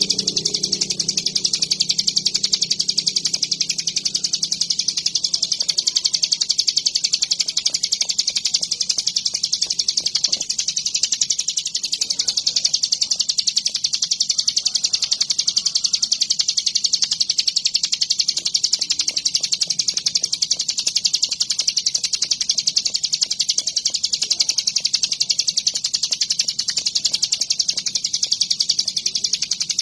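Ciblek gunung (a prinia) singing a continuous, very rapid, high-pitched chattering song without a break. A low hum fades out in the first few seconds.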